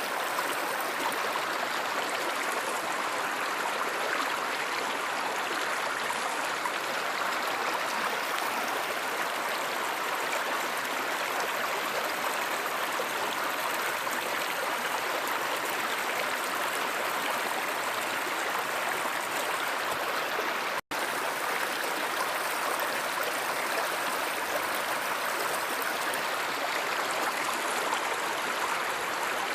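Stream water running steadily. About 21 s in it cuts out for a split second, where the looped recording is spliced.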